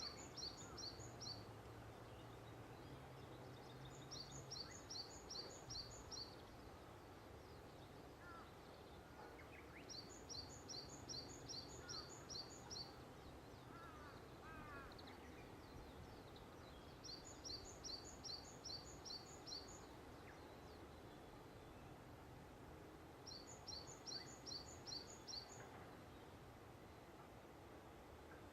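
A songbird singing a rapid phrase of about eight quick high notes, repeated roughly every six seconds, five times over, with a few fainter chirps from other birds in between, over a quiet outdoor background.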